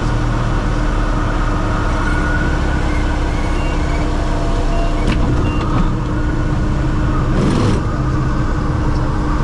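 Light airplane's engine running steadily, a loud, even drone with a held low hum.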